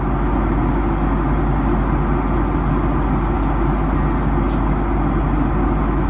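Boeing 767-300 airliner cabin noise in cruise: a steady drone of engines and airflow, heaviest in the low end.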